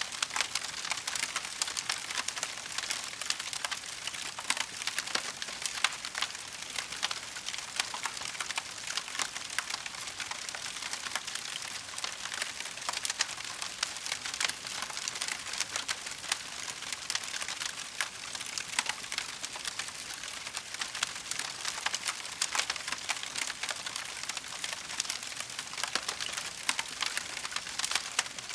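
Burning wood crackling steadily, with many small snaps and pops over a soft hiss.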